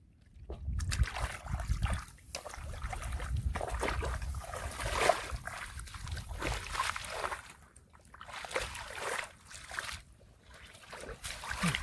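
Irregular splashing and sloshing in shallow muddy water, with short lulls about eight and ten seconds in.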